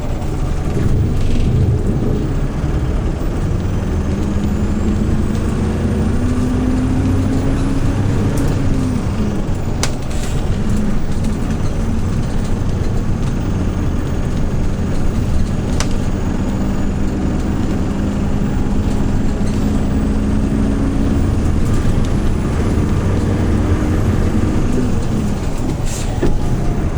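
A Hyundai New Super Aero City CNG city bus engine pulling away, its pitch rising steadily and dropping sharply at a gear change about eight seconds in. It climbs again through the middle and eases off near the end, with a faint high whine rising alongside and a few short clicks.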